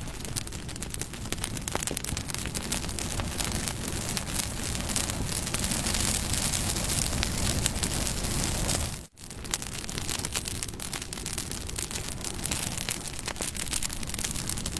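Bonfire burning, a steady rush of flame full of small crackles and pops. The sound drops out for a split second about nine seconds in.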